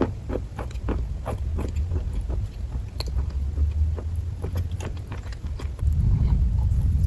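A person chewing kaju katli, a soft cashew fudge, with a run of small mouth clicks several times a second. Underneath is a steady low rumble that gets louder near the end.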